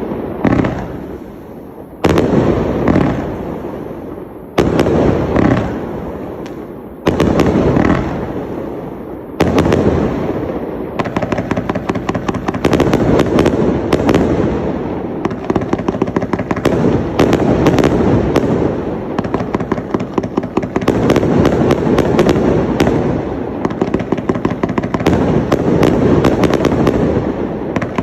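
Fireworks display cakes firing. First come about five loud single shots, roughly two seconds apart, each followed by a fading crackle. About a third of the way through, this turns into a dense, rapid barrage of shots and crackling that keeps going.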